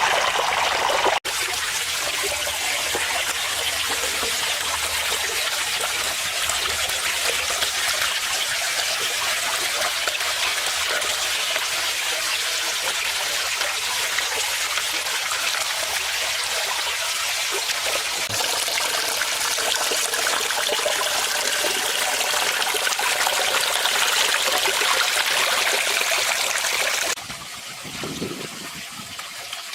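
Water falling steadily from a small built waterfall and splashing into a pond, a constant trickling rush. The sound breaks off briefly about a second in, then grows quieter near the end.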